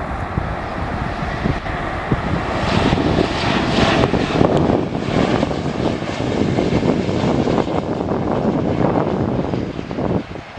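Airbus A321neo's Pratt & Whitney PW1133G geared turbofan engines as the jet comes in to land, a rushing engine noise that swells about two to four seconds in, holds, and falls away near the end.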